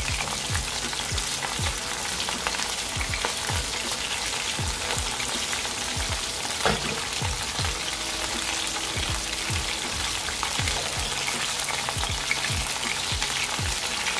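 Battered chicken breast pieces frying in a pot of hot oil: a steady sizzle.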